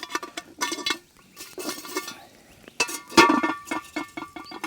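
Metal clinking and clanking: a string of separate knocks with short metallic ringing as a cast-iron camp oven and its lid are handled.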